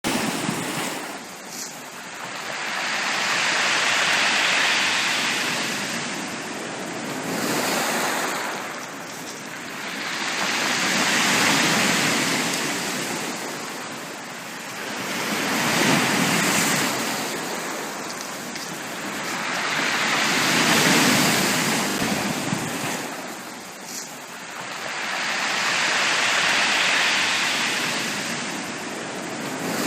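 Sea waves breaking and washing up a beach, the surf swelling and fading in slow, even surges about every five seconds.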